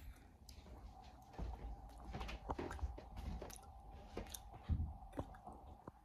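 Close-up chewing and mouth sounds with scattered small clicks, over a faint steady hum.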